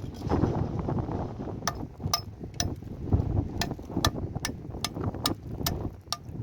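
Wind buffeting the microphone in gusts, with an even run of sharp, lightly ringing taps, about two a second, starting under two seconds in.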